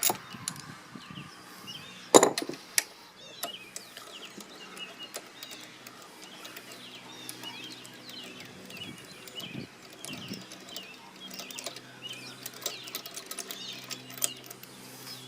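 Small birds chirping in the background, with a sharp knock about two seconds in and a few lighter clicks of handling. A faint steady low hum runs underneath.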